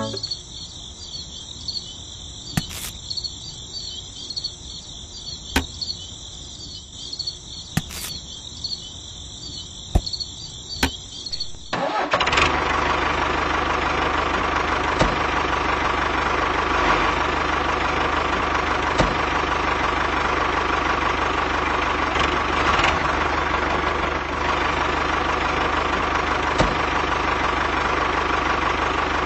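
A high, pulsing chirr with a few sharp clicks, then about twelve seconds in the mini tractor's engine sound starts abruptly and runs steadily, with a held whine over a low hum.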